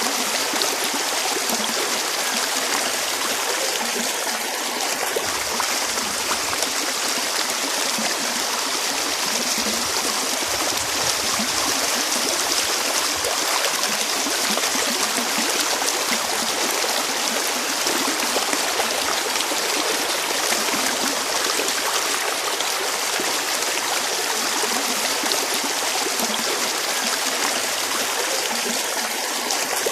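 Running water of a stream flowing steadily, an even rushing hiss with no breaks.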